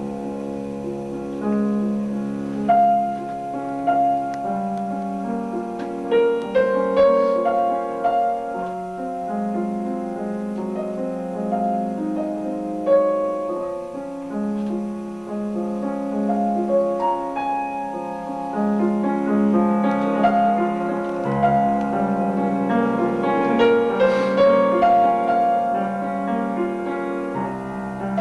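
A piano playing a slow piece: a melody over held chords.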